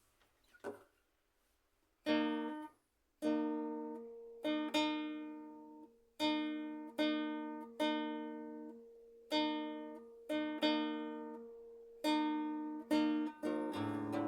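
Guitar playing the intro: chords struck one at a time and left to ring out, about one a second. Near the end the strokes run together into continuous strumming.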